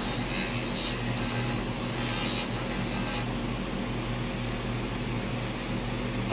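2000-watt handheld laser rust remover running steadily: a continuous buzzing hiss from the beam ablating rust, over the machine's low electrical hum.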